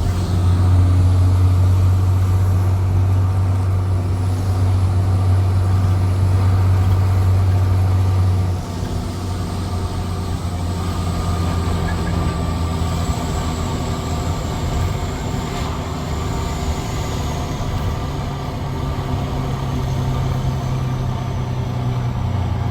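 Straight-piped Cummins C8.3 inline-six diesel in a school bus, running under load with a deep, loud exhaust drone. The drone drops off sharply about eight seconds in, then runs on steadier and builds slightly again near the end.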